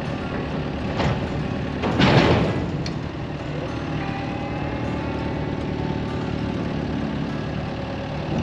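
Tractor engine running steadily, with a brief louder surge about two seconds in.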